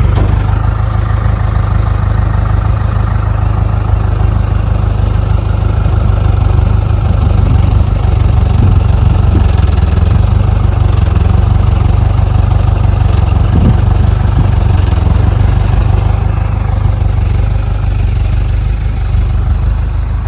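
Tractor engine running steadily with a low rumble as the tractor is manoeuvred.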